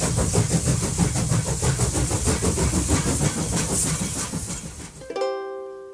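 A train running on the rails: a steady low rumble with a rapid, even clatter that fades near the end. In the last second it cuts to a plucked ukulele note as music starts.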